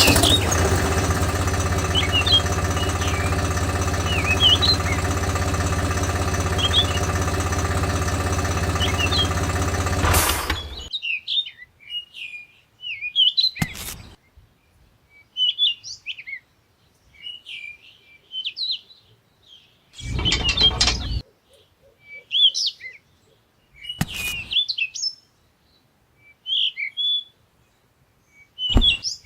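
Small motor of a homemade mini tractor running steadily for about ten seconds, then cutting off suddenly. After it, birds chirp on and off, the motor runs again for about a second near the two-thirds mark, and there are a couple of short sharp knocks.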